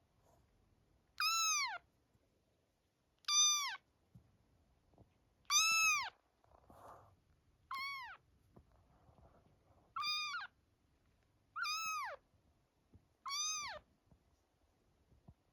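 Four-week-old kitten mewing seven times, about every two seconds: short, high, thin cries that drop in pitch at the end of each.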